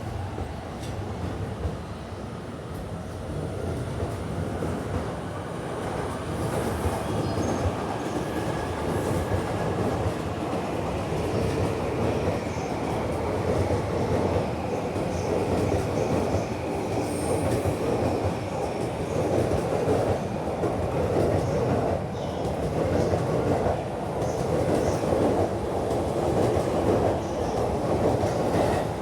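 Joban Line train running on the rails, a steady rumbling noise that builds over the first several seconds and then holds loud. A faint gliding whine comes through partway along.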